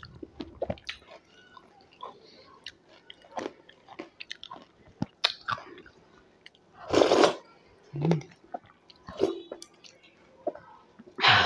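Close-miked chewing of yogurt-topped chaat, with many small wet mouth clicks and smacks. In the second half there are a few louder sounds, each about half a second long.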